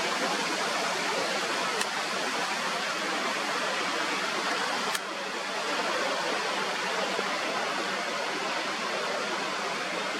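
Steady rushing wind noise on a clifftop, with a small click about two seconds in and a sharper click about five seconds in, after which the rushing drops a little.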